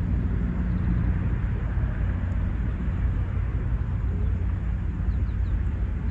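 Outdoor ambience dominated by a steady low rumble, with a few faint short high chirps.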